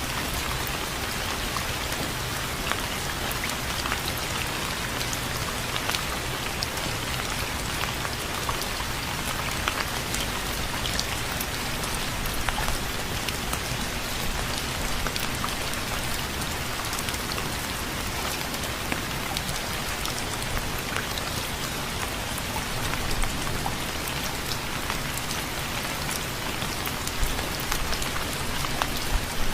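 Steady rain falling, with many individual drops tapping close by over an even hiss.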